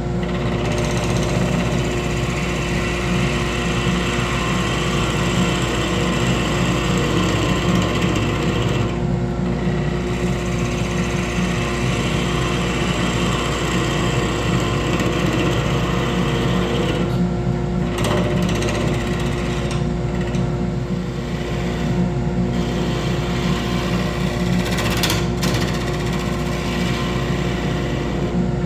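Wood lathe running steadily, a continuous motor hum under a broad machine noise.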